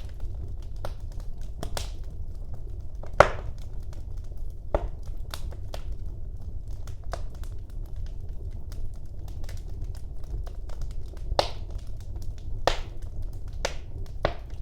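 Wood fire burning in a fireplace: a low steady rumble of the flames with irregular crackles and sharp pops from the burning logs, the loudest pop about three seconds in.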